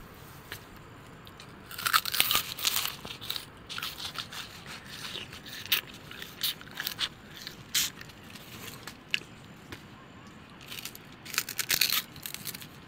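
Irregular crisp crunching and crackling while a snack is being made, in bunches of quick snaps about two seconds in and again near the end, with scattered single clicks between.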